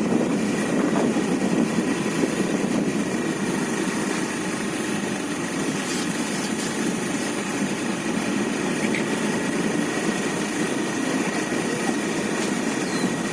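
Flooded river rushing past in a steady, unbroken roar of water.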